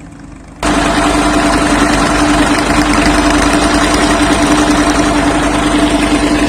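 Old tractor diesel engine powering a brick-making machine, running steadily with a strong, even hum. About half a second in it suddenly becomes much louder and stays loud.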